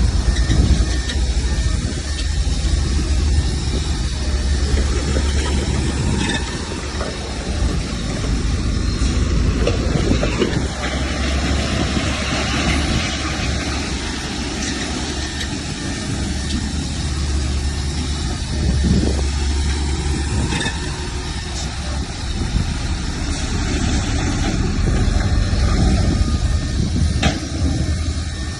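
Diesel engine of heavy earthmoving machinery running steadily with a deep rumble, with a few sharp metallic clanks.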